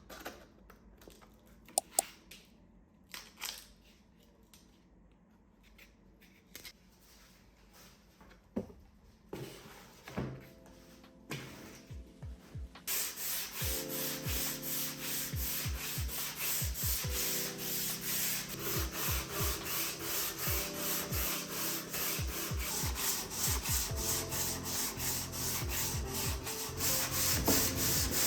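Wood being sanded: a few scattered knocks and handling clicks, then about halfway in a steady rasping sanding sets in with a quick, even rhythm.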